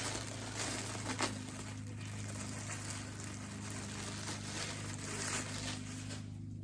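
Rustling and crinkling of packaging as items are handled and unwrapped, with a few light clicks, over a steady low electrical hum.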